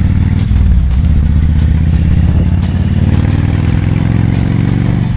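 Kawasaki Vulcan 2000's big V-twin engine running loud and deep, its pitch dipping briefly about half a second in and then holding steady, with a few sharp clicks.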